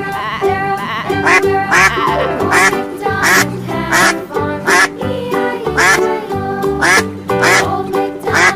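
A duck quacking repeatedly, short calls about once a second, over background music with a steady beat.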